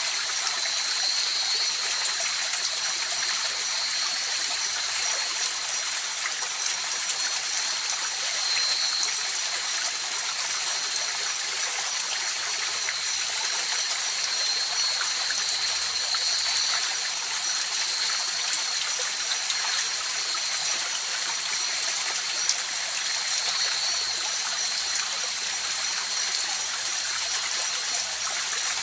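River water running steadily, an even rushing flow with a faint constant high-pitched note over it.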